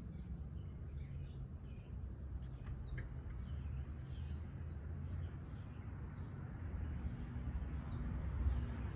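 Small songbirds chirping, many short high calls a fraction of a second apart, over a steady low rumble that grows louder near the end.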